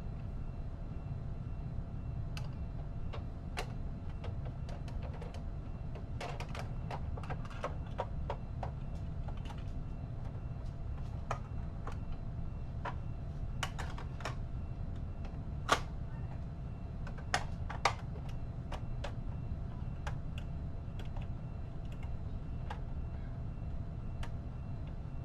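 Scattered light clicks and taps of plastic dolls and toy pieces being handled, over a steady low hum; a few sharper clicks stand out about two thirds of the way through.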